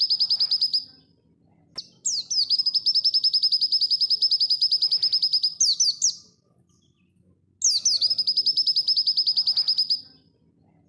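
Pleci dakun white-eye singing fast trills of rapid, evenly repeated high notes. Each phrase opens with a quick falling sweep and lasts a few seconds. The first phrase ends about a second in, a long one runs from about two to six seconds, and another starts near eight seconds.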